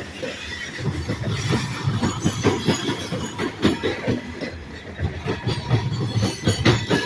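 Freight train cars rolling past, their wheels clacking over the rail joints in a steady stream of knocks.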